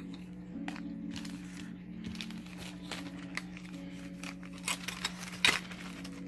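Handling of small items and packaging: crinkling rustles and light clicks, the sharpest about five and a half seconds in, over a steady low hum.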